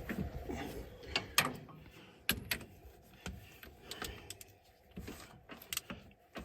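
Irregular sharp clicks and knocks of hand tools on metal, a dozen or so spaced unevenly.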